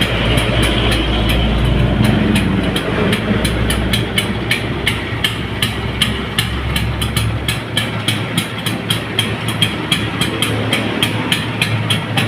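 A freshly rebuilt Vespa scooter engine running, rising in pitch about two seconds in, with its deepest rumble dropping away about seven and a half seconds in. A regular tick comes about three times a second.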